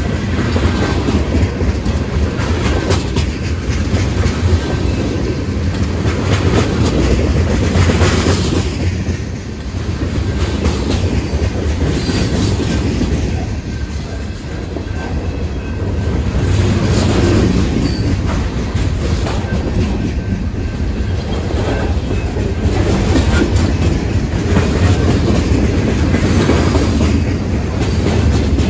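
Freight train of tank cars, centerbeam flatcars and boxcars rolling past: a steady rumble of steel wheels on rail with clickety-clack over the rail joints, swelling and dipping as the cars go by.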